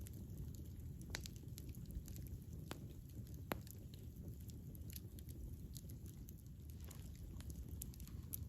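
Wood fire burning with a low steady rumble and irregular sharp crackles and pops, a loud pop about three and a half seconds in.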